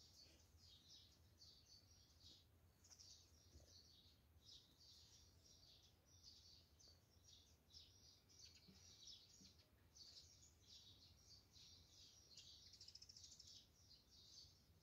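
Faint chirping of birds: many short, high chirps following one another closely.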